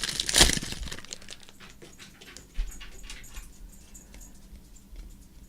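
Trading cards and a foil pack wrapper being handled, with a burst of crinkling at the start, then light rustling and clicking of cards that fades away.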